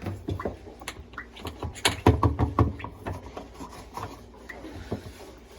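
Irregular handling clicks and knocks, with a denser cluster of louder knocks about two seconds in.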